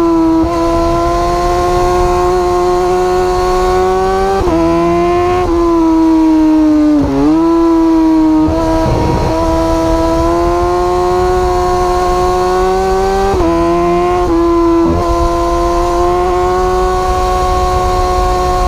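Superbike engine running hard at high, fairly steady revs, its pitch briefly jumping and dipping a few times as the throttle or gear changes, with wind rushing over the onboard camera.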